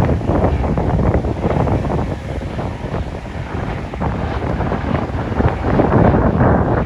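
Strong wind buffeting the microphone in uneven gusts, a deep rumbling noise that swells toward the end, with surf likely underneath.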